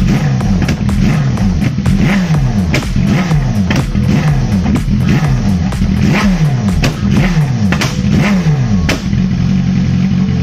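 BMW S1000RR inline-four engine revved over and over, about once a second, each blip of the throttle falling back in pitch. It settles into a steady note near the end.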